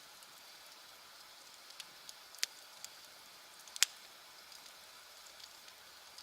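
Wood campfire crackling, with scattered small ticks and two sharp pops about a second and a half apart.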